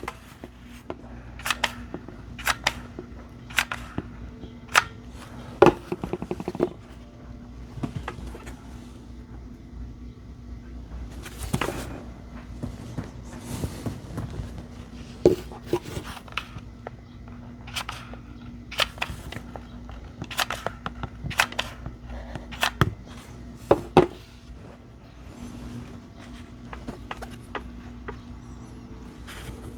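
Irregular sharp clicks and taps of 18650 lithium-ion battery cells being picked up, slid and set against each other on a work surface while they are glued into a row, over a steady faint hum.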